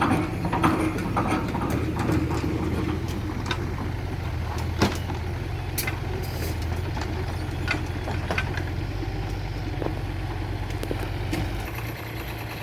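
Diesel engine idling steadily, with scattered knocks and clicks over it and one sharper knock about five seconds in.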